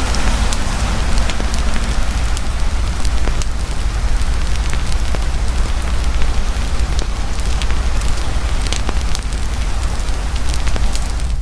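A campfire crackling, with many small sharp pops, while heavy rain falls steadily. A deep, steady rumble runs underneath.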